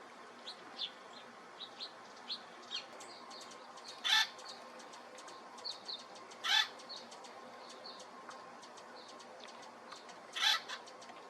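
Birds calling: many short, high chirps, broken by three loud, harsh calls of under half a second each, about four seconds in, about six and a half seconds in, and near the end.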